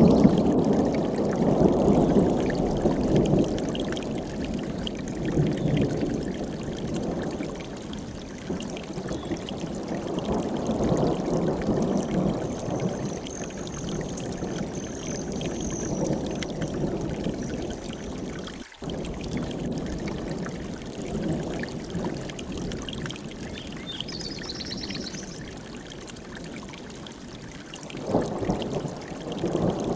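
Mountain stream rushing over rocks, swelling and easing every few seconds. A bird calls faintly high above it twice.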